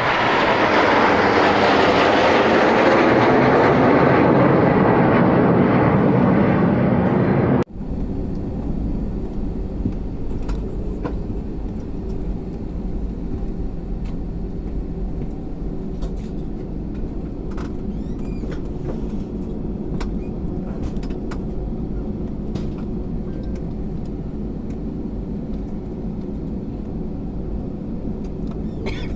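A loud rushing noise for about the first seven seconds, cut off suddenly. After that a tractor's diesel engine runs steadily, with occasional light clicks and knocks.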